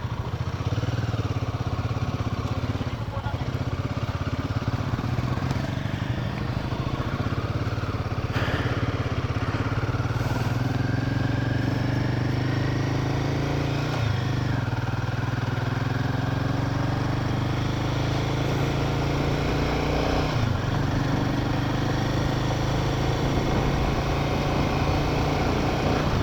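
Royal Enfield Himalayan 450 motorcycle's single-cylinder engine running under way, its pitch climbing as it accelerates and dropping back sharply at a few gear changes.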